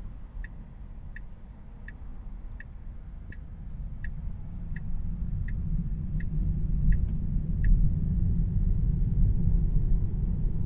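Tesla Model 3 turn-signal indicator ticking evenly about one and a half times a second inside the cabin, stopping about three-quarters of the way through. Beneath it a steady low road and tyre rumble grows louder from about halfway.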